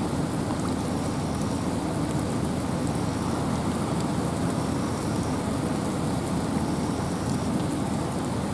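Steady wind and rain in a forest: a dense, even rushing noise, deep in tone, with no break or change.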